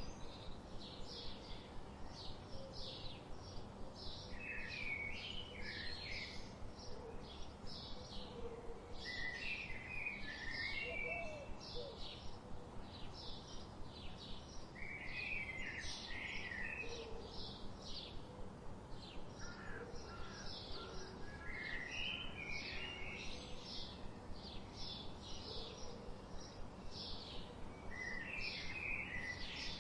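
Birds chirping continuously: a steady run of quick, high, short chirps, about two or three a second, with a lower warbling phrase breaking in every few seconds.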